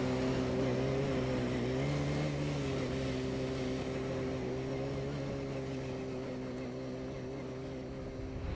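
ATV engine running at a steady speed, its note nearly constant, slowly getting quieter.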